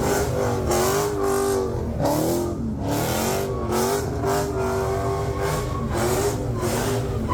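A car engine revving hard during a burnout, its pitch repeatedly climbing and dropping about once a second, over a steady rushing noise.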